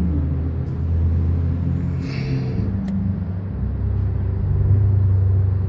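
A motor vehicle engine running with a low rumble, its pitch stepping up and down a couple of times, with a short hiss about two seconds in and a sharp click just after.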